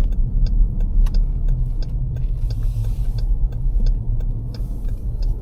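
Car driving on snow-covered roads, heard from inside the cabin as a steady low engine and road rumble. A regular ticking comes about twice a second.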